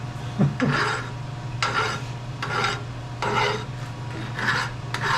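Repeated rasping strokes of hand finishing on a steel machine handle, about one stroke every 0.8 seconds, over a steady low machine hum.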